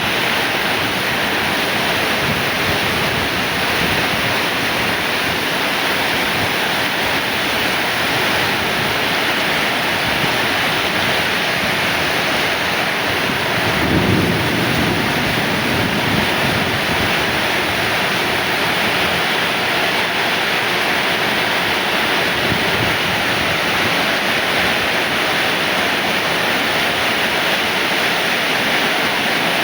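Heavy rain pouring down in a steady, dense hiss, with a brief low rumble about halfway through.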